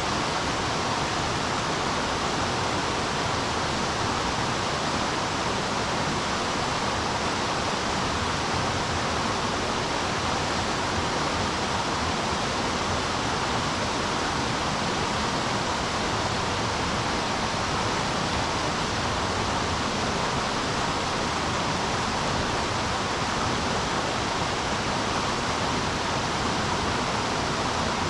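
Rushing river water: a steady, even hiss of the current with no changes.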